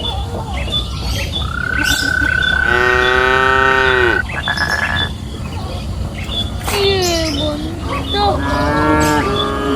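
A herd of cattle mooing. One long moo comes about two seconds in, a shorter falling moo about seven seconds in, and then several moos overlap near the end.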